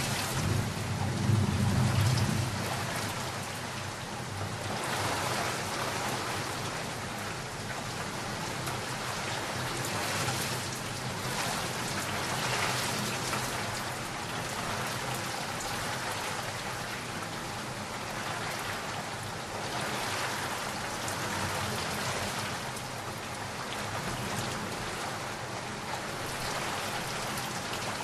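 Steady heavy rain falling on a surface, with a low rumble of thunder in the first couple of seconds.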